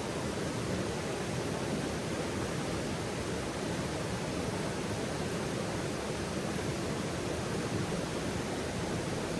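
Steady, even rushing noise, strongest in the low-mid range, with no distinct crackles or pops.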